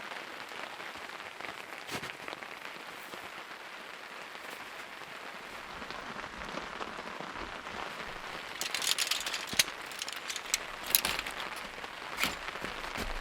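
Steady rain falling, with a run of sharp clicks and crackles in the second half.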